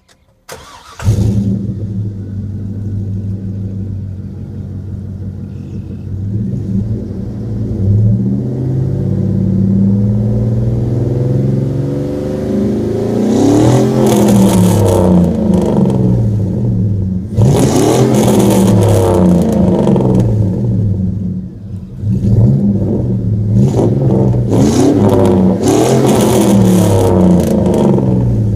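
A 2003 Chevy Silverado's 5.3-litre V8 starts about a second in, then idles and is revved several times, the revs longer and harder in the second half. It runs through the factory crossover pipe with the catalytic converters removed and a 40 series Flowmaster muffler into dual 2.5-inch tailpipes, which makes it loud.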